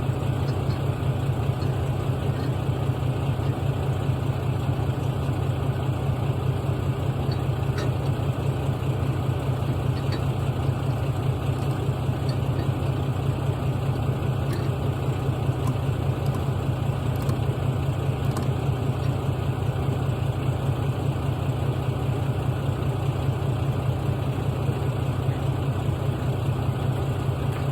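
Log truck's diesel engine idling steadily, with a few faint clicks.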